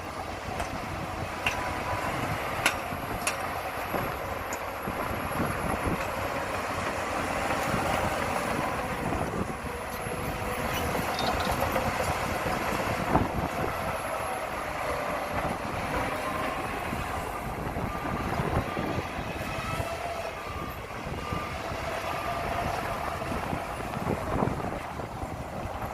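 Heavy diesel earthmoving machinery working: an engine running under changing load, with occasional clanks.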